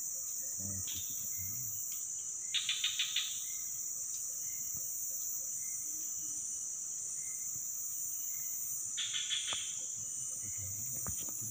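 Steady high-pitched insect chorus, crickets or cicadas, with two short bursts of rapid rattling pulses, one about three seconds in and another near nine seconds.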